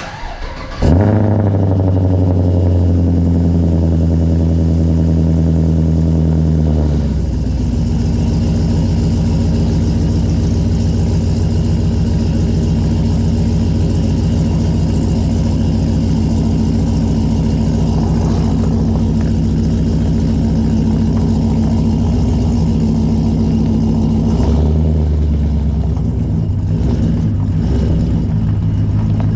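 Pickup truck engine with an equal-length exhaust cranking and catching about a second in, then running at a raised idle. About seven seconds in it drops to a lower, steady idle with an even exhaust pulse, and the idle shifts briefly about 25 seconds in.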